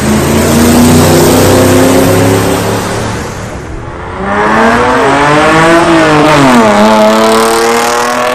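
Two cars accelerating hard one after the other. The first engine climbs in pitch and fades away about three and a half seconds in. A second, louder engine then revs up from about four seconds in, drops in pitch briefly partway through, and climbs again.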